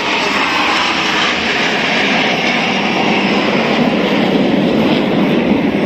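Jet aircraft flying past overhead: a loud, steady jet noise whose pitch slowly falls as it goes by.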